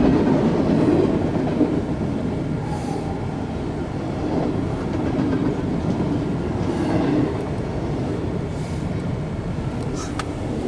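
Intermodal freight train cars rolling past at track speed: a steady, loud rumble and rattle of steel wheels on the rails.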